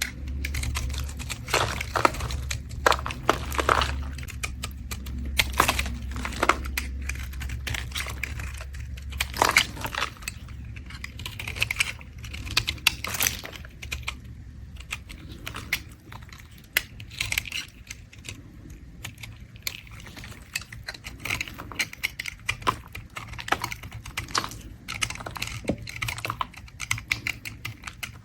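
Blade scraping a bar of soap: a run of crisp, irregular scrapes and ticks as shavings come off.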